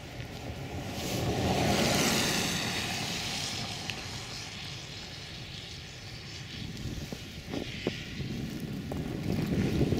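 A vehicle passes on a snowy road, its noise swelling to a peak about two seconds in and fading; another builds near the end, over a steady rumble of wind and traffic.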